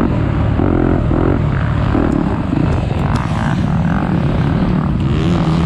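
Motocross dirt bike engine running continuously at a steady loudness, its pitch wavering slightly.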